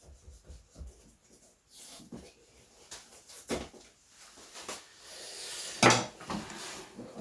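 Objects being handled and set down on a workbench: scattered knocks and clicks with some rustling, and one sharp loud knock about six seconds in.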